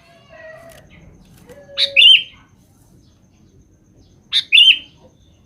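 Sooty-headed bulbul (kutilang) calling twice, about two and a half seconds apart. Each call is a sharp high note followed by a hooked, bubbling note, the call a singing male uses to call a female. Fainter, lower falling notes come before the first call.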